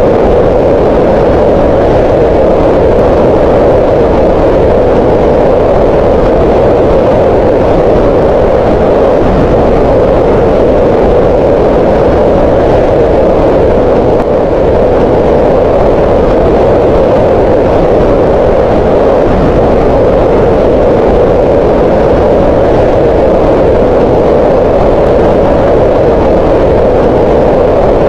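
Green noise: a steady, even rush of noise that is strongest in the middle of the range, with no tones or rhythm. It dips very slightly about halfway through.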